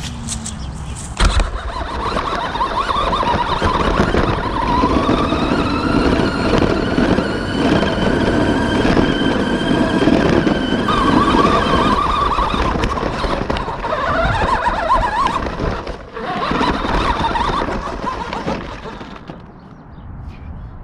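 Battery-powered remote-controlled monster truck driving, its electric motor whining up and down in pitch as it speeds up and slows, with the rattle and rumble of the truck over the ground. It drops off briefly about three quarters of the way through and fades near the end.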